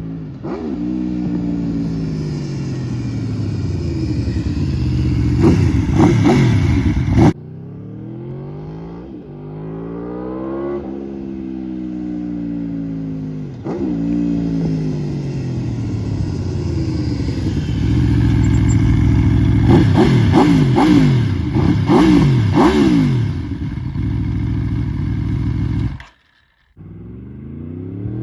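Sport motorcycle engine through an Akrapovic exhaust, loud, its pitch repeatedly climbing under acceleration and falling away again as it revs and passes. The sound cuts off abruptly about seven seconds in and again near the end, where one clip gives way to the next.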